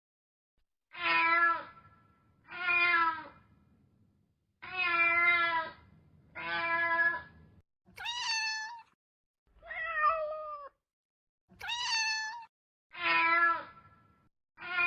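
Domestic cat meowing repeatedly: about nine separate meows with short silences between. A couple of them, about eight and twelve seconds in, are noticeably higher-pitched than the others.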